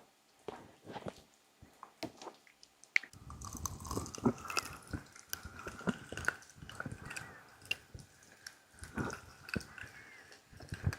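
ASMR ear massage: fingers rubbing, pressing and tapping on a microphone's ears, making irregular close-up squishy, crackling rustles that get busier and louder about three seconds in.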